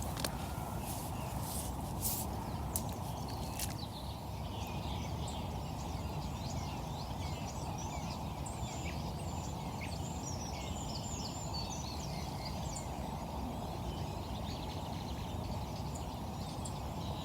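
Songbirds chirping and calling over a steady outdoor rushing noise, with a few sharp clicks in the first few seconds.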